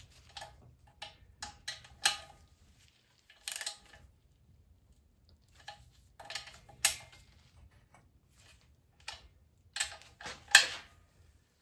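Sharp metallic clicks and clinks, about a dozen at irregular intervals, the loudest near the end, from a torque wrench and socket on the cylinder head nuts of a VW Beetle's air-cooled single-port engine as the heads are torqued down in a cross pattern.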